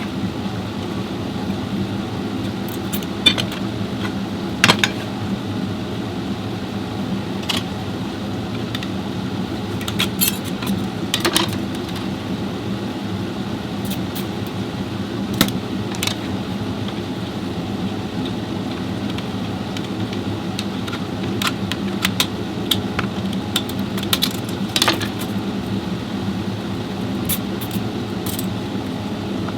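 Scattered sharp metallic clinks and taps of tools and metal parts being handled, over a steady mechanical hum.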